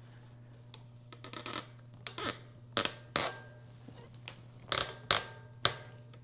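Metal tools and bicycle parts clinking and knocking during work on a bike's stem and headset: a scrape early on, then about five sharp clinks, some leaving a short ring.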